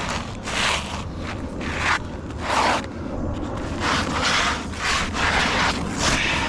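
Rough scraping and rubbing strokes of hand roofing work on asphalt shingles: about eight strokes in a row, each under a second.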